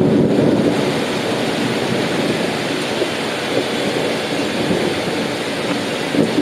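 Rain pouring down steadily as a dense, even hiss with no let-up.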